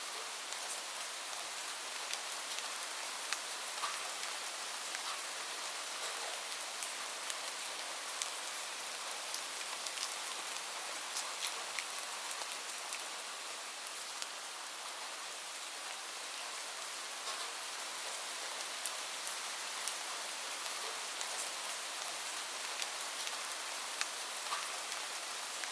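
Steady rain falling, with many small drops ticking sharply on a hard surface over an even hiss.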